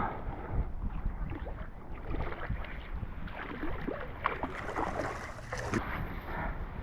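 Strong wind buffeting the microphone: a steady low rumble with scattered small knocks and rustles.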